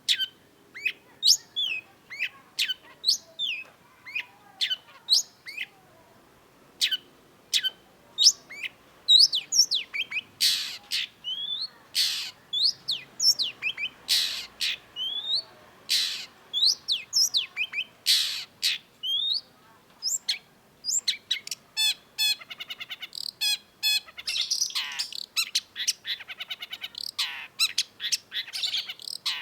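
Long-tailed shrike singing: a rapid string of sharp, falling whistled notes, broken in the middle by harsh loud notes, and turning into fast stuttering trills in the last third.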